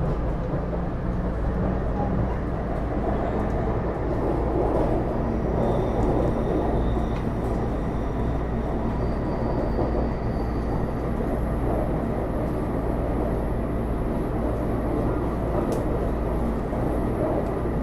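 Steady running sound inside a Taipei Metro Series C301 metro car with IGBT-VVVF traction: an even rumble of wheels on rail with a low hum and faint thin high tones.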